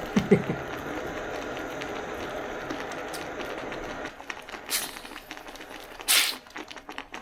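Cap of a bottle that has been shaken too hard being cracked open: the built-up gas escapes in two short, loud hisses near the end, after a dull thump at the start and a steady fizzing hiss.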